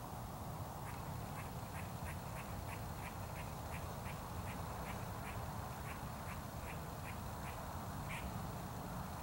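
A bird calling in a long series of short, evenly spaced notes, about three a second, over a steady low background rumble.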